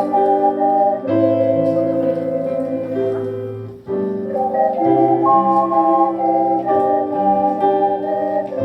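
Slow music of held, organ-like keyboard chords that change every second or so, with a short break between phrases just under four seconds in.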